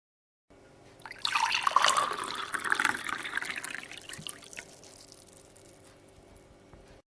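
Water splashing and dripping, with many small drops. It swells suddenly about a second in, then fades away and cuts off abruptly.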